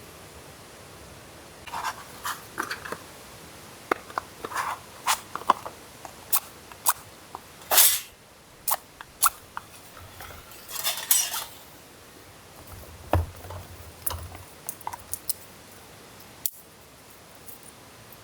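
Camp gear being handled by hand: a quick run of sharp clicks and taps with a few short rustles and one dull knock.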